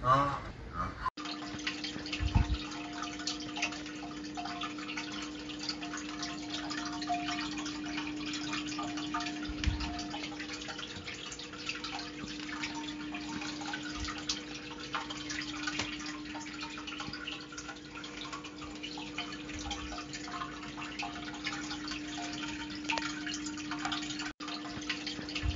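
Water trickling and dripping, many small ticks over an even wash, with a steady low hum underneath.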